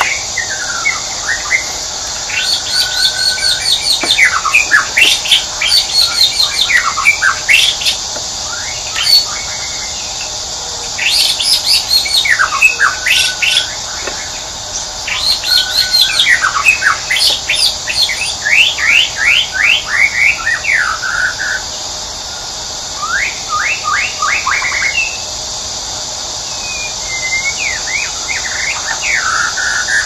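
Wild birds chirping: bursts of quick, rapidly repeated chirps and short trills lasting several seconds each, with brief pauses between, over a steady high hiss.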